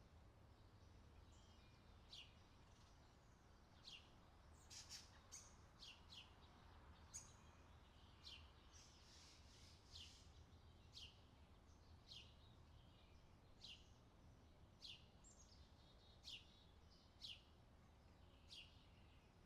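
Faint bird chirps, short downward-sweeping notes about once a second, over a low steady hum: a recorded outdoor summer ambience.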